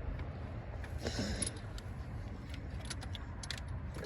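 Scattered light clicks and clinks, with a brief rustling burst about a second in, over a low steady rumble.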